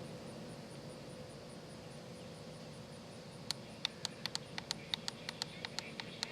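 Spirit box radio sweeping through stations: faint static hiss, then from about three and a half seconds in a fast, irregular string of sharp clicks as it steps through the band.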